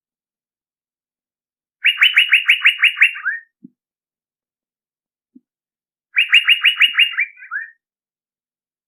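Male Asian fairy-bluebird (cucak biru) calling, as used for a bird-lure recording. There are two phrases of about ten quick, sharp, evenly repeated notes, each lasting about a second and a half; the second ends in a few lower, falling notes.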